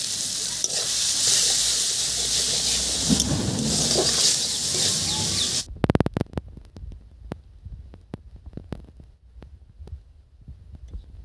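Green tomato slices sizzling in hot oil in an iron wok. The sizzle cuts off abruptly a little over halfway through, followed by a quick run of clicks and then scattered faint ticks and low thumps.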